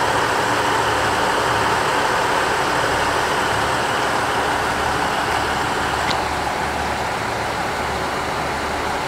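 Diesel engines of a KiHa 85 series limited express railcar idling steadily while the train stands at the station waiting on a red signal, with a constant hiss over a low hum.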